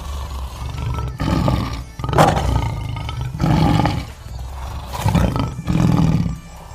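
A big cat roaring and growling in a series of rough calls, about one a second.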